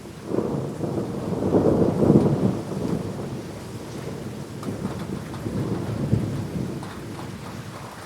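A rolling thunderclap over steady rain: the rumble starts about a third of a second in, swells to its loudest around two seconds, rolls on with a second swell near six seconds and dies away near the end.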